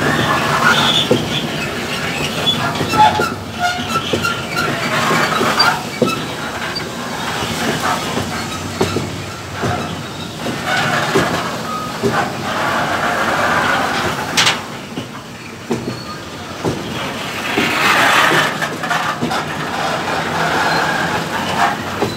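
Freight hopper wagons of a stone train rolling past at close range, their steel wheels clicking and clanking irregularly over the rails, with brief high wheel squeals. One louder clank stands out about two-thirds of the way through.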